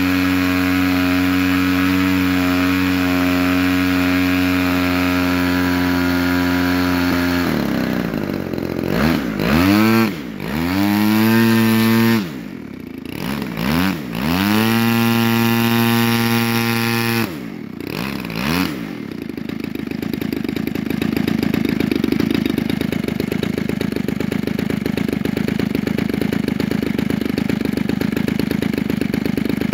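DLE 35RA 35cc single-cylinder two-stroke gasoline engine on a model airplane, spinning an 18x10 propeller in a ground run. It holds a steady speed at first, then about a quarter of the way in the throttle is worked and the revs drop and rise several times. It then settles into a steady, slightly louder run for the rest of the stretch.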